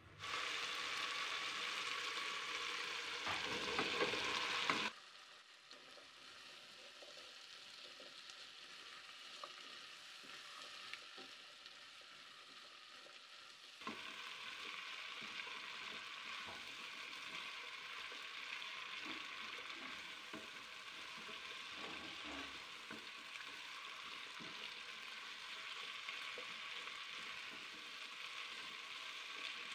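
Radish slices sizzling in a pot of hot oil and spice masala while a spatula stirs them, with faint scrapes and ticks. The sizzle is loudest for the first five seconds, drops back, then comes up again about halfway through and stays steady.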